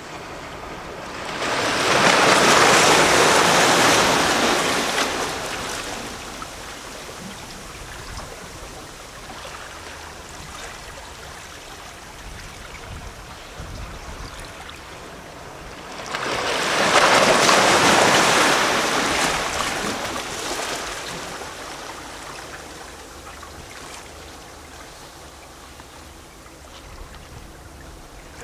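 Sea waves lapping and splashing against a rocky shore. Two waves wash in, about 15 seconds apart, each swelling quickly and fading away over a few seconds, with gentle plashing and gurgling of water between them.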